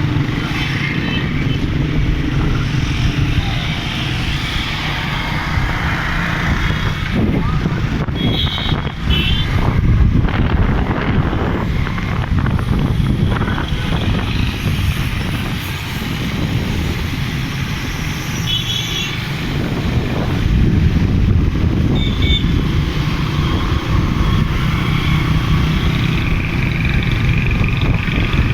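Vehicle engine and road noise while driving through city traffic, running continuously, with three short high beeps.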